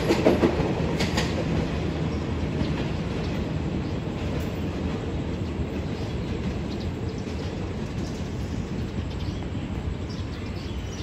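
Passenger train rolling along the track and moving away, its wheels clattering over the rail joints with a few sharp clicks about a second in, the rumble fading steadily.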